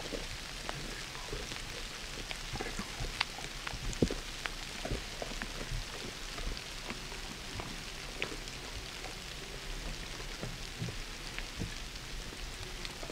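Steady rain pattering on the woods, with scattered drops ticking close by at irregular intervals.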